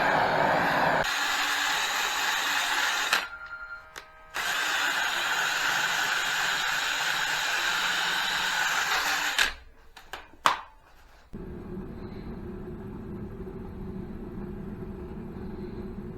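A power tool works on a motorcycle frame to clean it up, running steadily. It cuts out about three seconds in and again around nine and a half seconds in, with a few sharp clicks in the second pause. From about eleven seconds in, a quieter, lower steady running sound takes over.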